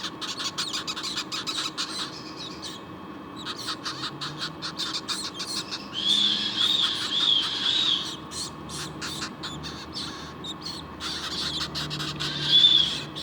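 Parrot chicks calling: a rapid ticking chatter, with a run of four short arched cheeps about six seconds in and another near the end.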